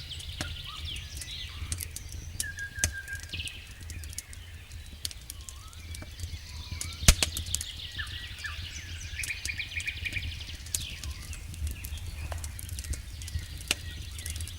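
Wood fire burning in a fireplace, crackling with irregular sharp pops, the loudest about seven seconds in, over a steady low rumble. High chirping trills sound repeatedly through it.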